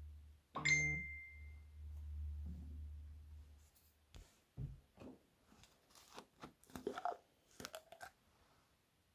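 Crunchy slime being handled: a knock with a short ringing tone, then a run of irregular crackles and crunches that trail off near the end.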